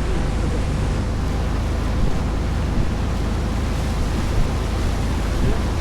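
Small tour boat's engine running steadily under way, a constant low drone, with water rushing past the hull and wind on the microphone.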